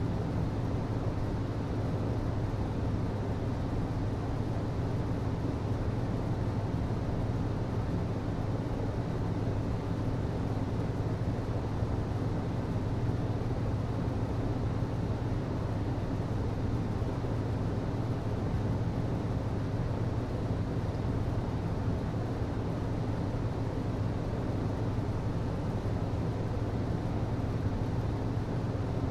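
HVAC system running: a steady, unchanging low hum with an even rush of air noise.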